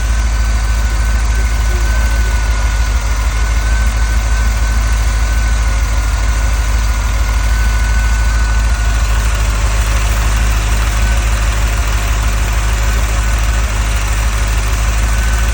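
A 1984 car's engine idling steadily at full running temperature. A faint, thin whine rides over the idle and fades out about two-thirds of the way through.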